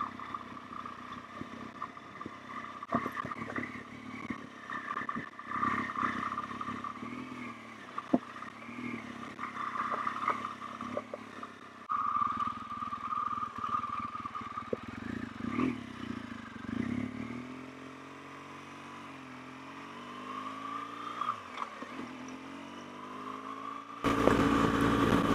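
BMW R1200GS boxer-twin motorcycle ridden off slowly, its engine running low with scattered clatters and knocks. From about two-thirds of the way in the engine note rises and falls as it pulls away through the gears, and just before the end a loud rush of wind sets in as it gathers speed.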